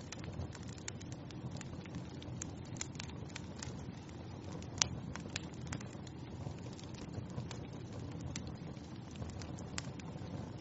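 Wood fire burning in a fireplace, crackling with irregular sharp pops over a steady low rumble, one louder pop about five seconds in.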